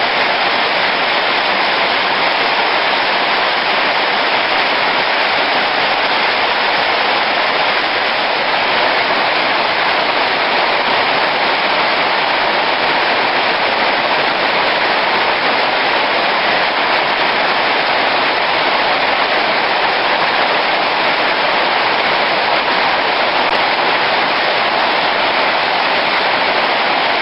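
Heavy rain falling hard and steadily, an even, unbroken hiss.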